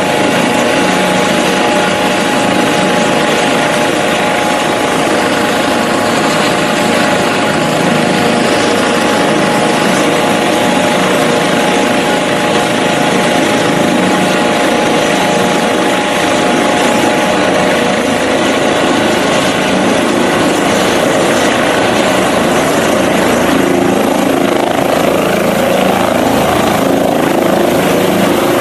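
Medical helicopter running close by: a steady turbine whine over the noise of the rotor, loud throughout.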